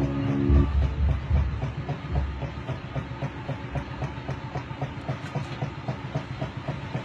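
Old table fan running with a rhythmic mechanical clatter, about four to five clicks a second over a steady hum, fading near the end. Background music stops about half a second in.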